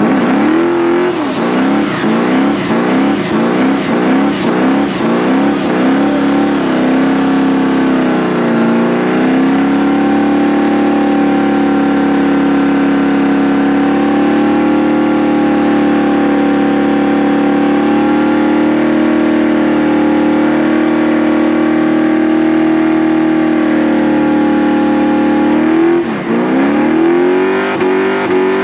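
Car engine revving loudly: a run of quick revs, a dip about eight seconds in, then held at steady high revs for about sixteen seconds before dropping and climbing again near the end.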